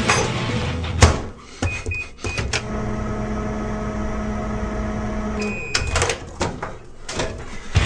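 Microwave oven being used: a door click, three short keypad beeps, a steady hum for about three seconds, a beep as it stops, then a few clicks.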